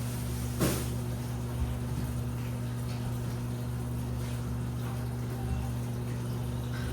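Washing machine running with a steady low hum, and one short knock just over half a second in.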